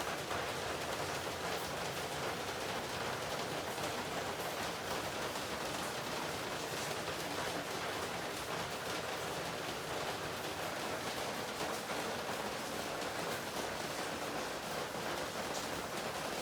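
Heavy rain falling, a steady hiss of many drops.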